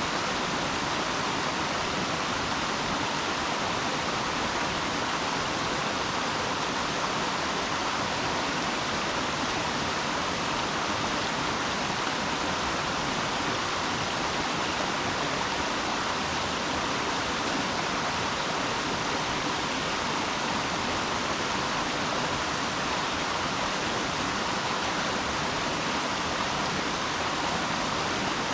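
Flowing water rushing steadily, an even hiss without breaks or splashes.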